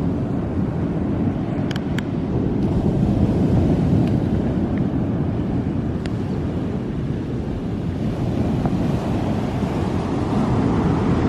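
Wind buffeting the microphone over ocean surf at the shore: a steady low rushing noise with no distinct events.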